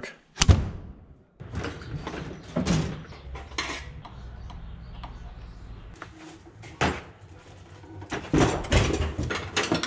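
Clanks and knocks of tools and metal car parts being handled: one sharp hit about half a second in, scattered knocks over the next few seconds, another near the middle, and a quick run of clatters near the end.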